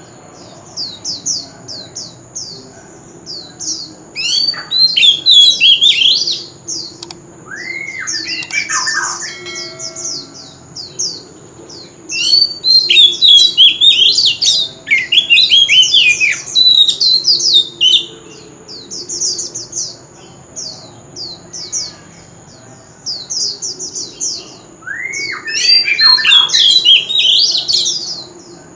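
Oriental magpie-robin singing in loud phrases of rapid sweeping, whistled notes, broken by short pauses, over a faint steady high-pitched tone.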